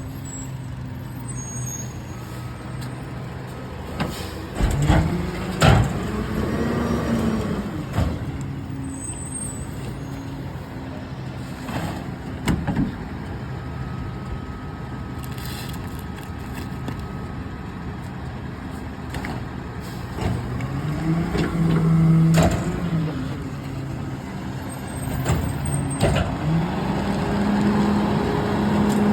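Garbage truck engine idling, then revving up twice, about five seconds in and again around twenty seconds in, with several sharp metallic clanks and knocks.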